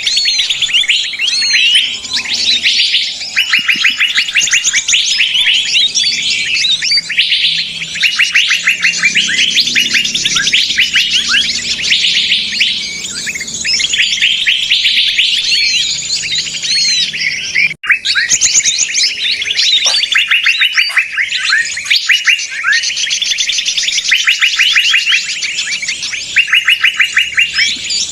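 A dense chorus of many small birds chirping and trilling at once, the calls rapid and overlapping without a break. It is the agitated 'noisy birds' lure call used to draw small birds in for trapping. The sound cuts out for an instant about two-thirds of the way through.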